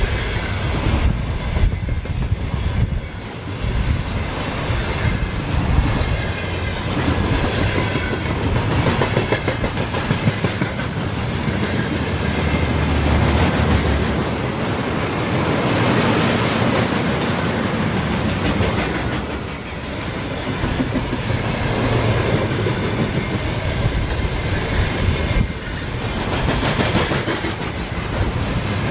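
Train passing close by, its wheels clattering over the rail joints in a steady clickety-clack that lasts the whole stretch.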